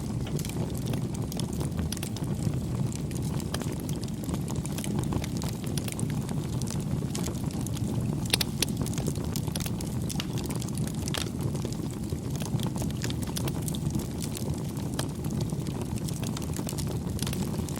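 Campfire burning: a steady low rush of flames with scattered crackles and pops from the burning wood, a few sharper pops a little past the middle.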